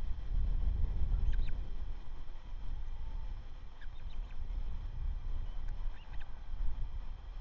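Brief groups of short, high bird chirps, three times, over a fluctuating low rumble.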